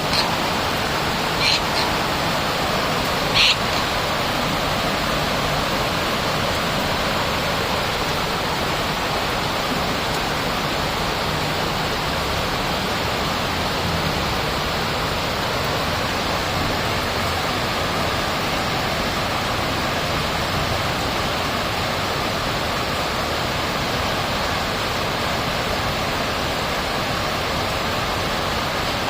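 Steady rushing noise, with a few short high-pitched bird chirps in the first few seconds.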